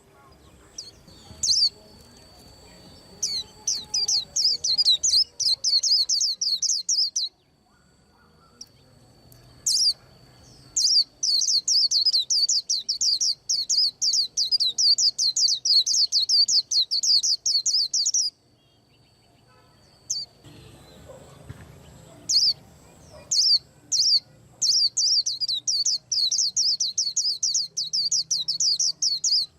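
A white-eye singing long, rapid trills of high, downward-sweeping notes in three bouts of several seconds each, with single chirps in the pauses between.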